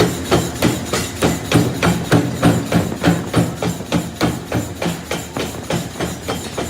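Rapid, evenly paced hammer blows on metal, a little over three a second, each with a short ring.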